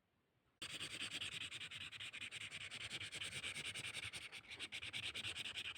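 A continuous, rapid scratching noise made of many fine strokes, starting abruptly about half a second in and stopping suddenly near the end.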